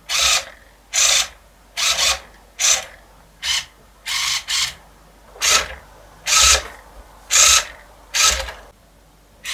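Lego pneumatic system venting compressed air in short, separate hisses, about a dozen of them roughly once a second, some with a light knock underneath.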